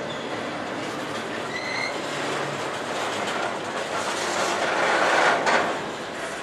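Empty intermodal flatcars of a freight train rolling past, steel wheels clacking over the rail joints, getting louder about four seconds in. A faint, brief wheel squeal sounds about two seconds in.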